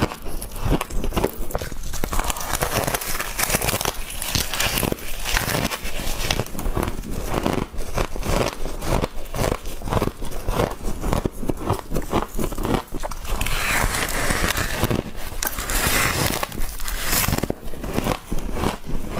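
A person biting and chewing soft crunchy humidifier frost: a dense, rapid stream of crisp crunches and crackles.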